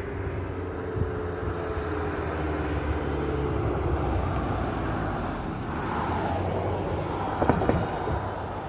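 Steady low rumble of street traffic, with a few short knocks about seven and a half seconds in.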